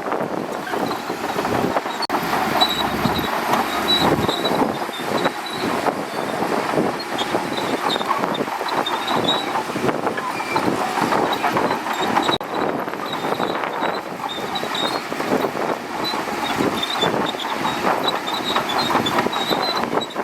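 Shantui DH17C2 crawler bulldozer working: its engine running and its steel tracks clanking, with short high squeaks that come and go.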